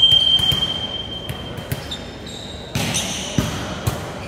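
A long, steady, high whistle blast for the first second and a half. It is followed by several sharp thumps like a ball bouncing on a hard indoor court, in an echoing hall.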